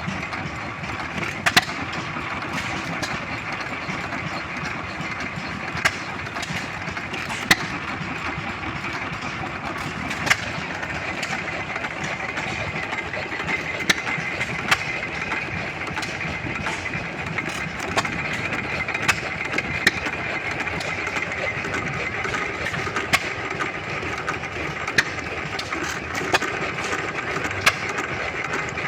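Old engines running steadily, with sharp pops at irregular intervals every second or few.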